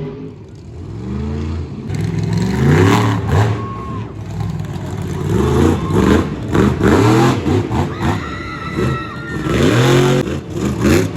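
Monster truck engine revved hard again and again, its pitch climbing and dropping back in quick surges.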